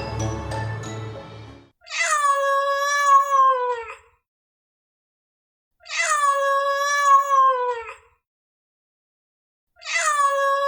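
Background music that stops a little under two seconds in, then the same long cat meow three times over. Each meow lasts about two seconds and dips in pitch at its end, with about two seconds of silence between them.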